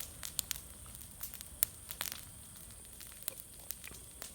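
Bonfire of dry leaves, grass and branches crackling, with irregular sharp pops and snaps over a low steady hiss.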